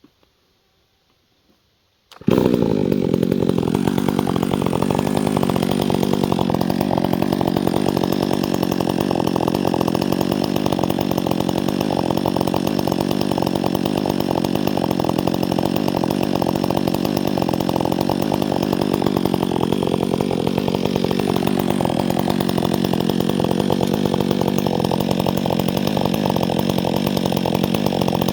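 Chainsaw comes in suddenly about two seconds in and runs steadily at high revs, its pitch dipping briefly a few times.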